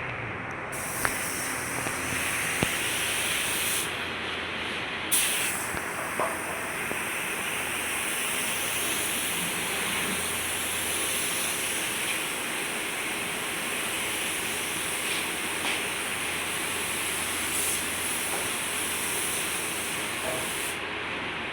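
Steady hiss of air or spray that starts just after the beginning, breaks off for about a second, then runs again until it cuts off near the end, with a few faint clicks.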